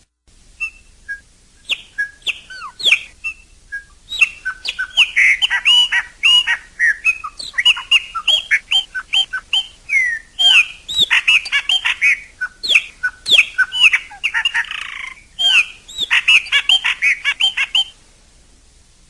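Chopi blackbird singing: a few scattered notes, then from about four seconds in a rapid, dense run of clear whistled notes, quick pitch sweeps and sharp clicks. The song stops a second before the end.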